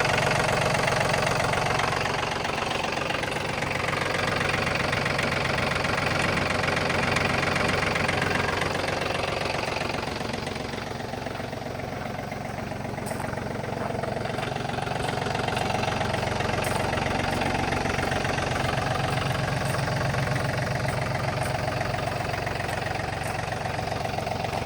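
John Deere 4210 compact tractor's three-cylinder diesel engine running steadily; it grows quieter for a few seconds near the middle, then comes back up.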